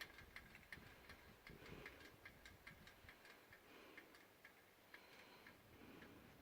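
Faint, regular clicking or ticking, about three to four clicks a second for the first few seconds, then thinning out to an occasional click, with a soft breathy whoosh every couple of seconds.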